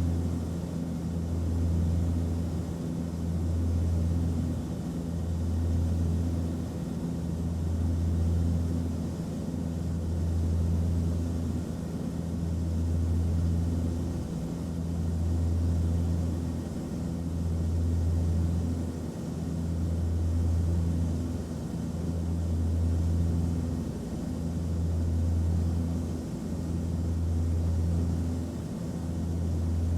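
Airliner cabin noise: a steady low engine drone with a faint hiss, swelling and easing gently about every two and a half seconds.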